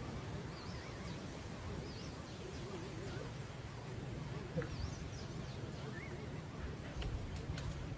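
Faint bird chirps over a steady background hiss, with a few light clicks.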